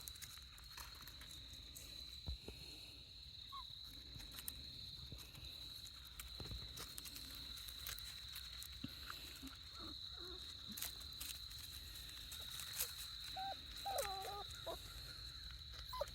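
Faint outdoor ambience under a steady high-pitched whine, with light scattered rustles and steps, and a few soft puppy whimpers near the end.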